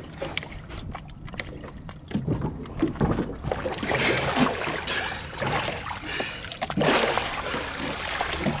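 Water splashing and sloshing around a boat, in irregular surges that are loudest about four seconds in and again near seven seconds.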